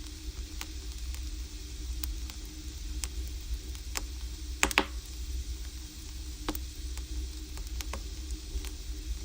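Firewood burning in an agungi, a traditional Korean wood-fired furnace: a steady hiss over a low rumble, with scattered sharp crackles and pops. A quick cluster of louder pops comes about halfway through.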